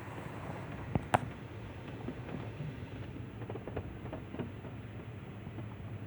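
Rollover car wash heard from inside the car: a steady low hum with light pattering and scattered ticks, and two sharp clicks about a second in.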